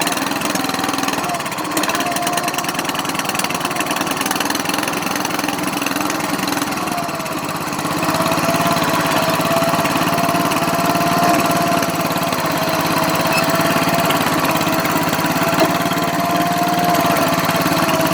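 Riding lawn mower engine running just after a cold start, having fired right up after sitting all winter. It gets louder and steadier about eight seconds in, with a steady whine over the engine's note.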